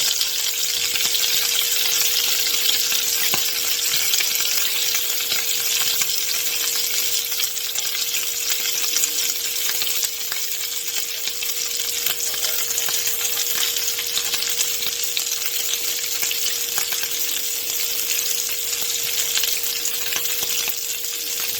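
Chicken and bacon pieces searing in a hot pan, a steady sizzle with light crackling. A faint steady tone runs underneath.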